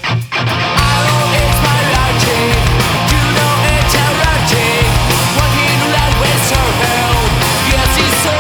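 Melodic punk rock band recording playing loud and dense, with a brief break right at the start before the full band crashes back in.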